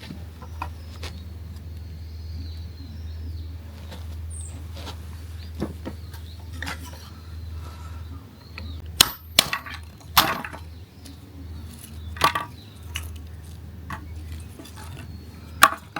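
A handful of sharp cracks and clinks, the loudest coming from about nine seconds in, over a low steady rumble. Faint bird chirps sound in the first half.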